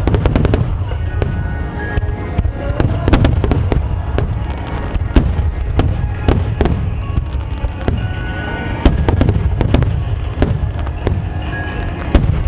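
Starmine fireworks barrage: shells bursting in rapid, overlapping bangs, several a second, over a continuous low rumble.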